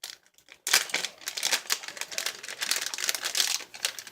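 Packaging of a carburetor rebuild kit crinkling and crackling as it is handled and opened by hand, in quick irregular bursts after a short pause.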